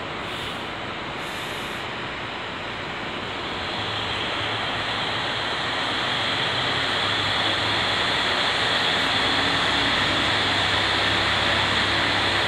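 Running noise heard from inside a JR Hokkaido local train as it pulls out of the station, growing steadily louder from about four seconds in as it picks up speed, with a low steady hum coming in.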